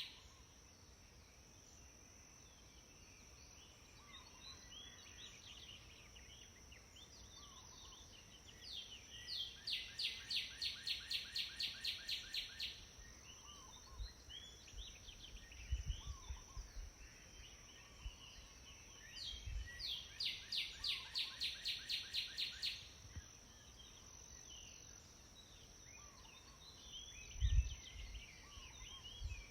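Birds singing: one bird twice delivers a fast run of repeated high notes, about four a second for three to four seconds each time, among scattered short chirps from other birds, over a steady high hiss. A few low thumps come through in the second half.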